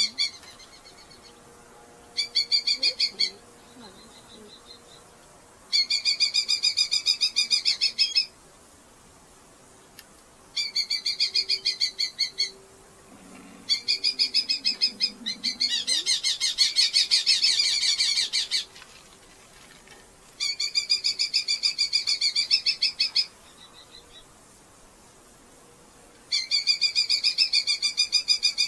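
Red-footed falcon calling in bouts of a rapid chattering ki-ki-ki, about six runs of one to a few seconds with short pauses between them. The longest and loudest run comes in the middle.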